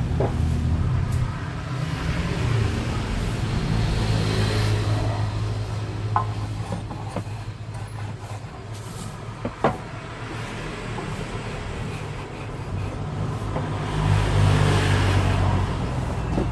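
Low mechanical rumble, like a passing vehicle's engine, that swells and fades and is loudest near the end, with a few sharp knocks scattered through it.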